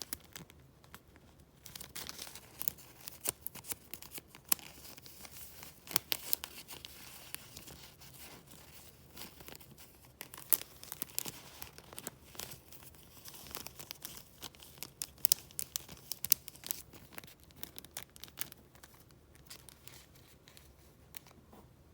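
Sheets of paper being handled and flipped through: crisp crinkling and rustling with many sharp snaps of paper, thinning out near the end.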